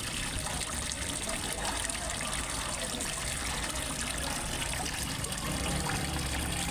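Water from a waterfall trickling and splashing steadily into a fish pond. A low rumble underneath grows a little near the end.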